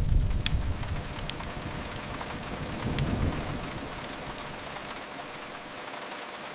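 Steady rain hiss with scattered sharp crackles of a wood fire. A low rumble is strong at the start, fades within about a second and swells briefly again about three seconds in.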